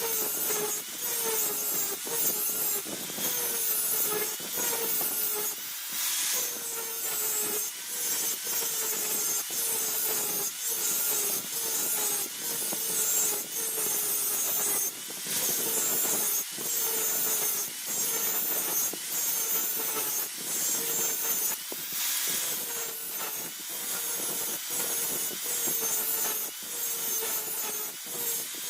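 Back-and-forth strokes of a hand tool, a file or saw, working the steel of a dao blade made from a car leaf spring, repeating steadily a little over once a second, each stroke with a faint ringing tone from the steel.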